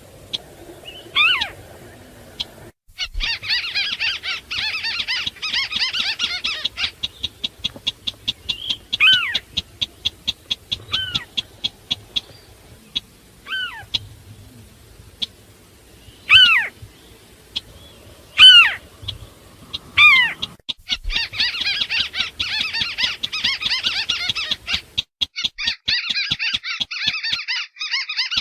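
Lure-call recording of marsh crakes, a mix of Sintar beker and white-browed crake. Loud, sharply falling calls repeat every couple of seconds, alternating with long stretches of fast, dense chattering trills and runs of quick ticking notes.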